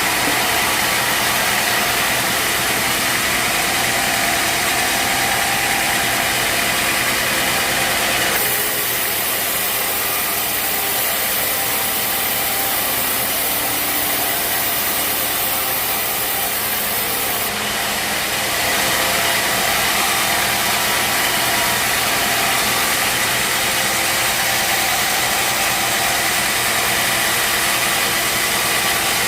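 Sawmill machinery running steadily, an engine-driven drone with a broad hiss over it, which changes in character about 8 seconds in and again about 17 seconds in.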